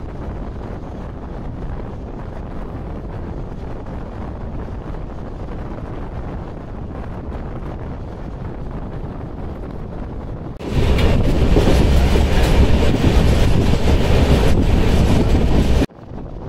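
Train running on the track: a steady rumble of wheels and rail noise. About eleven seconds in, a much louder stretch of train noise with wheel clatter starts suddenly and cuts off about five seconds later.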